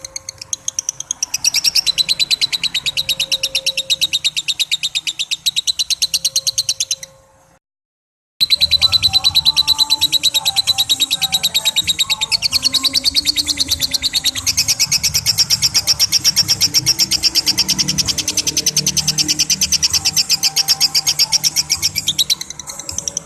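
Lovebird chattering in a long, rapid 'ngekek' trill: a fast, unbroken string of shrill chirps. It stops dead for about a second some seven seconds in, then carries on just as long and loud.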